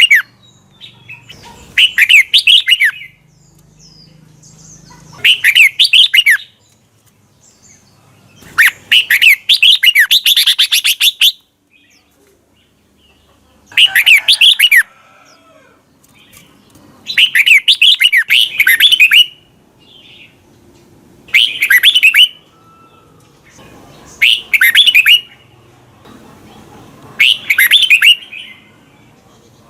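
Red-whiskered bulbul singing short, clear song phrases of quick up-and-down notes, one phrase every three to four seconds, with one longer phrase near the middle.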